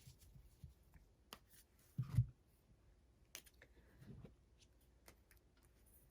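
Faint handling of a deck of oracle cards as a card is drawn: scattered soft clicks and rustles, with a dull thump about two seconds in and a softer one near four seconds.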